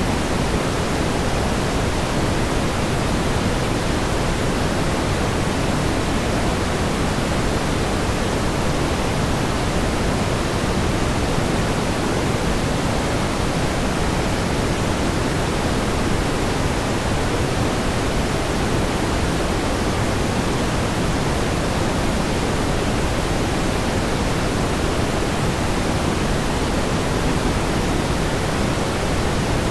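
Steady pink noise: an even, unchanging hiss weighted toward the low end, with no events or variation.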